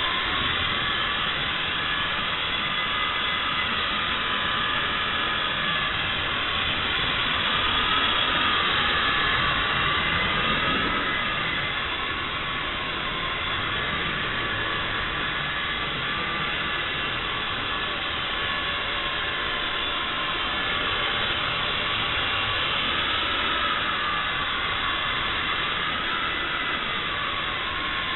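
Xieda 9968 mini single-blade RC helicopter's electric motor and rotor whining steadily in flight, the pitch rising and falling slightly.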